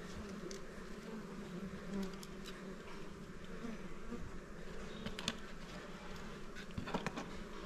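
Small honeybees buzzing steadily in numbers around their comb, which is being cut for honey. A few light clicks and taps of handling come about five and seven seconds in.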